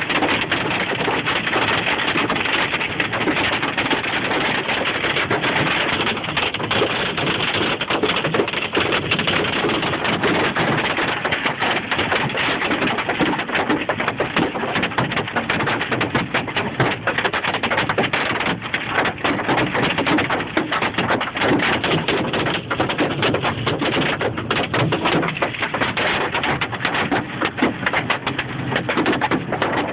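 Hail pelting down: a steady, dense clatter of countless small ice impacts.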